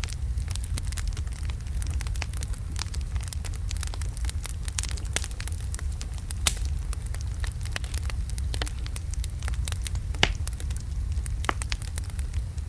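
Wood fire of large logs burning in a fireplace: a steady low roar of flames under frequent small crackles, with a few sharper pops, the loudest about ten seconds in.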